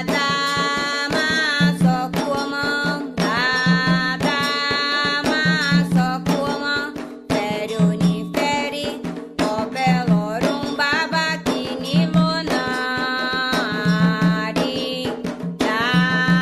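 A Candomblé song (ponto) for Xangô: a voice singing a chant over a steady beat of hand drums.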